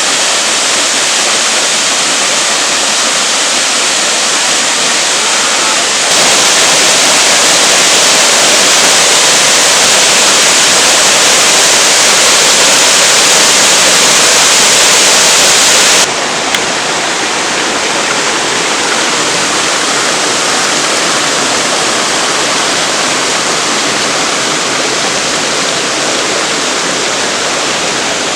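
Water pouring down a waterfall of about 30 m, a loud steady rush of falling water. The level jumps up about six seconds in and drops back sharply about sixteen seconds in.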